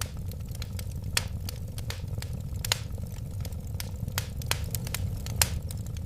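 Wood fire crackling over a steady low rumble, with a scatter of small ticks and four louder sharp pops.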